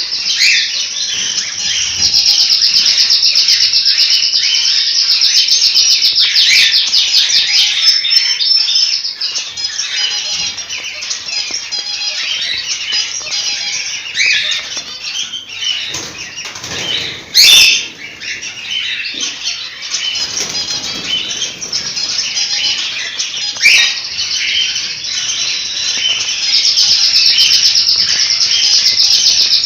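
A flock of cockatiels chirping and chattering all at once, with fast trilled runs, busiest near the start and again near the end. Two sharp knocks cut through, about halfway and again a little later.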